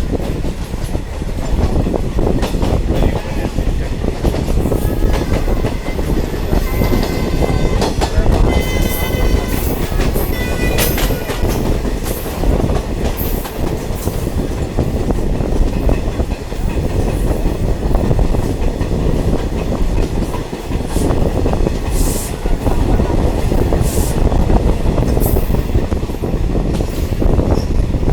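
Diesel multiple unit train running along the track, a steady loud rumble of engine and wheels on rail. A few high-pitched tones come and go about a quarter to a third of the way through.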